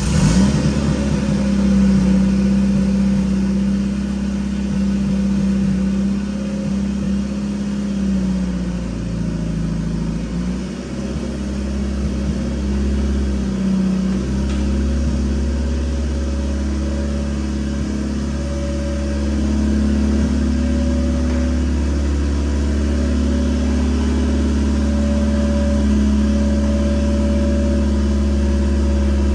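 A car engine starting and then idling, its pitch dipping and rising a few times in the middle before it settles back to a steady idle.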